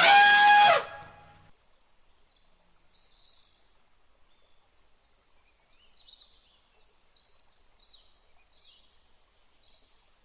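A single loud, pitched animal call lasting under a second, followed by faint, scattered high bird chirps.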